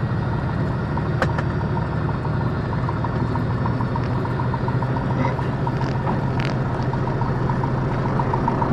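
Piper Comanche 250's six-cylinder Lycoming O-540 engine and propeller running steadily at low power after landing, heard from inside the cockpit as an even, unchanging hum.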